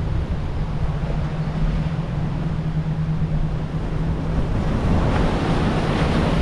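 Heavy surf breaking, with wind buffeting the microphone and a steady low engine hum that fades out about four and a half seconds in. The surf grows louder near the end.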